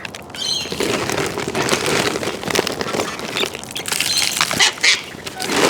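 Irregular close-up crunching and cracking as wild parrots feed, beaks working at food, with a few short high squawks.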